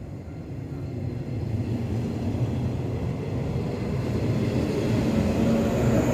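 A train approaching, its low rumble growing steadily louder.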